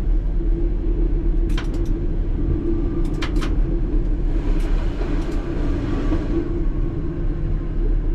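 ČKD Tatra T3R tram running on rails, heard from the driver's cab: a steady rumble with a humming drone, sharp clicks about one and a half seconds in and again around three seconds in, and a fainter hiss near the middle.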